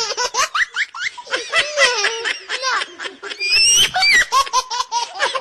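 Laughter: fast, repeated bursts of laughing that run throughout, with a higher-pitched squealing stretch a little past the middle.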